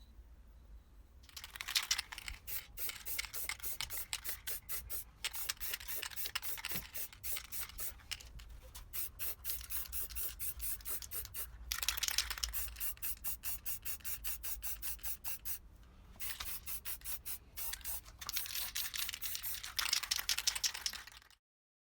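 Rapid back-and-forth abrasive strokes, a few each second, worked by hand on a part of an old oil lamp. They come in several runs with short pauses and cut off abruptly near the end.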